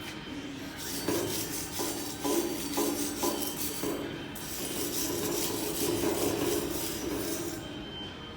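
Wire brush scrubbing steel bar work back to clean bare metal to prepare it for welding: several short scraping strokes, then a longer stretch of steady scrubbing.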